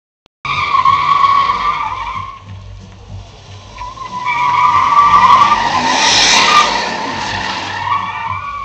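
Dodge Durango doing a burnout: its spinning tires squeal loudly in a high screech over the running engine. The squeal starts abruptly about half a second in, eases off around two and a half seconds in, then builds again to its loudest around six seconds before fading near the end.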